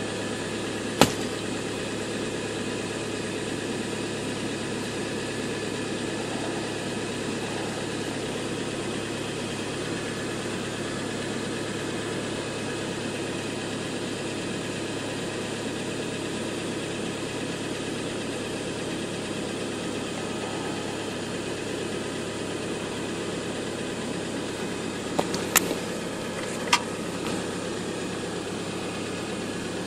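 Car engine idling, a steady hum heard inside the cabin, with a sharp click about a second in and three more sharp clicks near the end.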